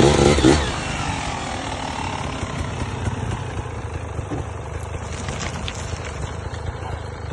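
Off-road motorcycle engine running: a louder burst in the first half-second, then a steady low rumble.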